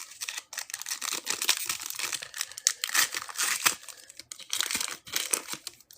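Trading-card pack wrapper crinkling and tearing as a pack is ripped open and handled, an irregular crackle of many small rustles and snaps.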